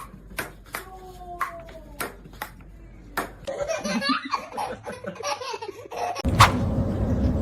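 A person laughing, after a run of sharp irregular taps. About six seconds in, the sound cuts abruptly to a louder, noisier background.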